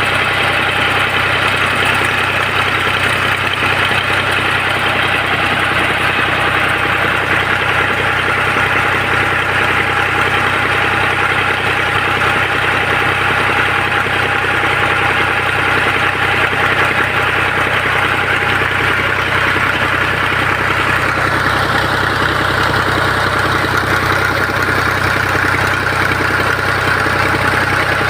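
Tractor engine running steadily at a constant speed, driving a tubewell water pump.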